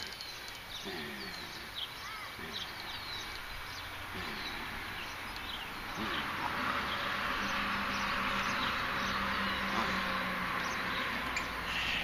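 Birds chirping with short whistled calls again and again. About halfway in, a steady low hum and hiss of unclear source rises under them.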